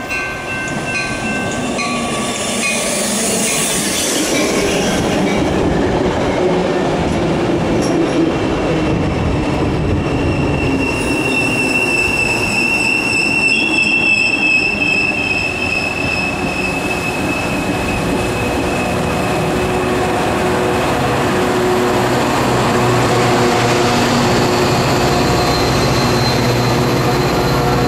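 A Metra commuter train rolling past, its passenger cars rumbling and clacking over the rails. A high wheel squeal rises from about 11 s and fades by about 16 s.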